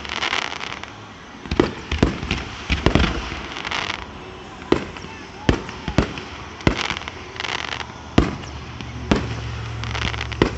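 Fireworks display: aerial shells bursting in sharp bangs at irregular intervals, about a dozen in ten seconds. Stretches of crackling fizz come between the bangs.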